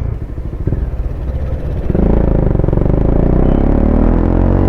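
Motorcycle engine heard from the rider's helmet mic, running with a low pulsing note for about two seconds, then getting louder with its pitch climbing steadily as the bike accelerates, over wind rush.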